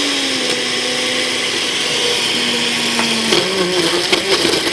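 Cuisinart SPB-600 Smart Power Deluxe blender running on high in its glass jar, blending frozen fruit, ice cream and liquid into a thick milkshake. About three seconds in, the motor's pitch dips and turns unsteady, with a few knocks.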